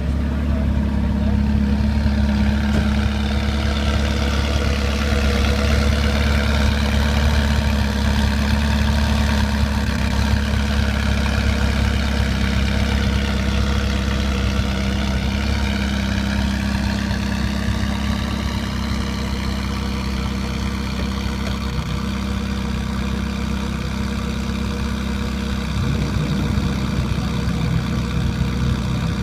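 Ferrari F40's twin-turbocharged V8 idling steadily.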